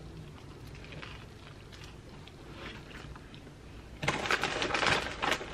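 A bite of tuna sub sandwich being chewed: faint mouth sounds at first, turning louder and crackly for the last second and a half.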